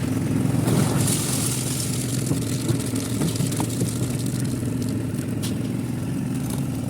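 Engine running steadily at a constant speed, with scattered light clicks and knocks over it.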